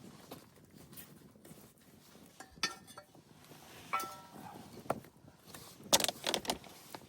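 Sharp knocks and clinks of hard objects being handled, some leaving a brief ringing tone, with a louder cluster of clattering knocks about six seconds in.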